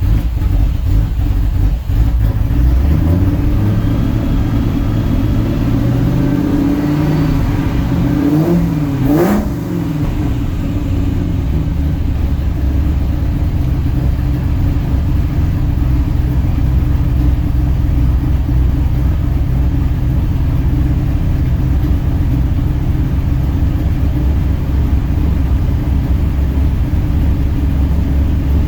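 2003 SVT Cobra's supercharged 4.6-litre V8 running steadily. About three seconds in, it is revved slowly up to a peak and drops back about a second later, then settles to a steady idle. The owner suspects a vacuum leak.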